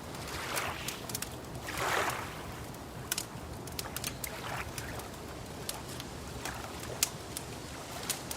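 Wood fire crackling with irregular sharp pops, over soft swells of water lapping every couple of seconds.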